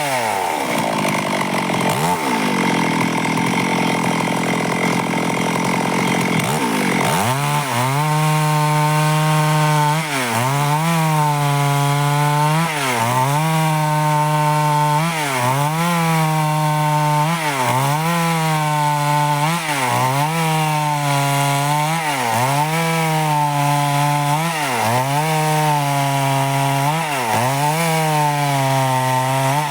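Stihl two-stroke chainsaw cutting wood. The engine drops to a low speed at the start, then from about seven seconds in runs at full throttle, its pitch dipping under load and recovering about once a second in a steady rhythm, as the saw is worked along the cut.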